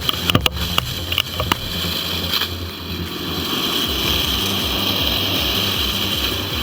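Heavy machine's engine running steadily, with several sharp knocks in the first second and a half.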